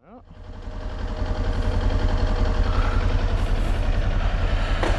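Kawasaki Ninja 400's parallel-twin engine idling steadily, fading in over the first second. A single click sounds just before the end.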